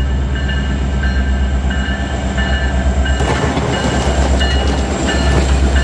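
A train running on the track with a steady low engine drone and rolling wheel noise, the rumble growing about three seconds in as it comes on.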